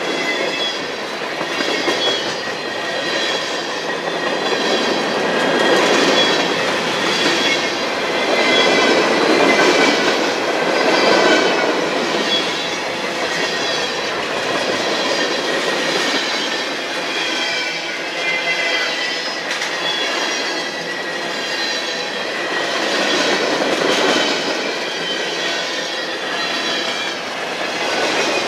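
A CSX manifest freight train's cars rolling past steadily, wheels clacking over the rails, with high-pitched squealing from the wheels against the rail throughout.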